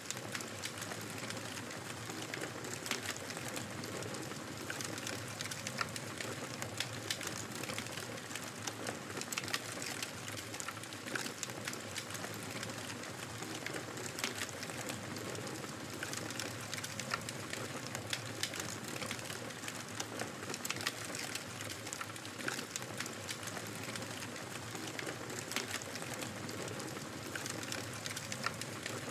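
Wood fire in a fireplace crackling: a steady hiss of burning with frequent sharp pops and snaps scattered throughout.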